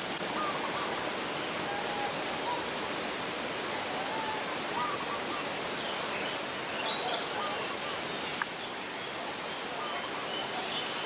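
Steady rush of running water with scattered short bird chirps over it, the clearest a pair of high chirps about seven seconds in, and a single sharp tick shortly after.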